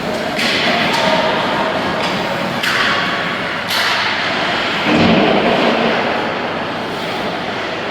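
Game play in an indoor arena: a steady rushing noise with sharp scraping bursts near the start and about two and a half seconds in, and a loud thud about five seconds in.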